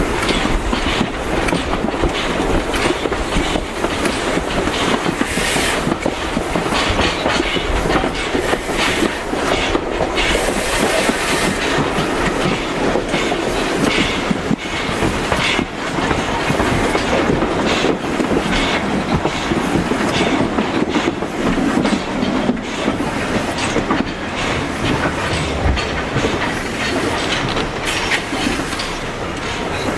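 Railway carriage wheels running along the track, a steady rumble with repeated clicks and clacks as the wheels pass over rail joints.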